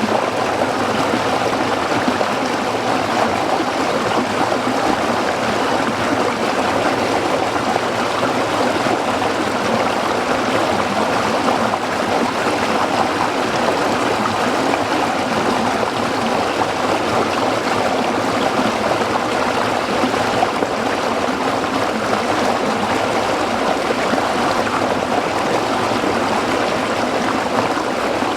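Shallow stream water flowing and splashing steadily over rocks, an even rushing burble with no breaks.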